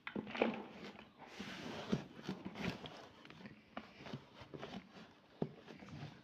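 Irregular light clicks, knocks and rustling of hands and utensils at work, with a short stretch of hissing noise about a second and a half in.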